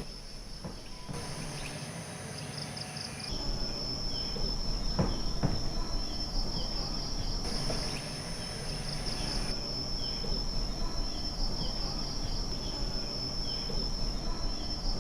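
Tropical rainforest insects: a steady, high-pitched pulsing trill with other chirps over it, the mix changing abruptly several times.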